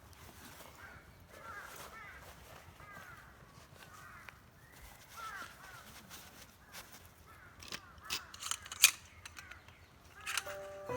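Birds calling over and over in short, repeated calls. Near the end a few sharp clicks and knocks come in, one a little before the end standing out loudest.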